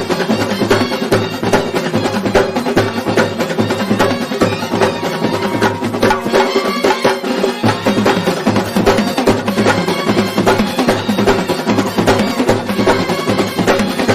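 Kerala festival band playing: fast, dense drumming with sustained held notes underneath, continuous and loud.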